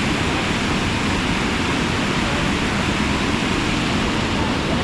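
Steady rush of a waterfall, a loud even noise of falling water.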